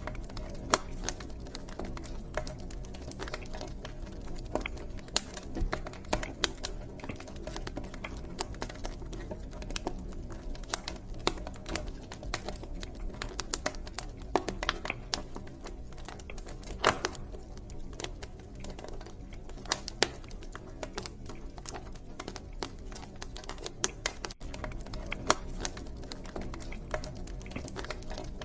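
Wood fire burning in a fireplace: constant irregular crackling and popping, with sharper pops now and then, over a low, steady rumble of flames.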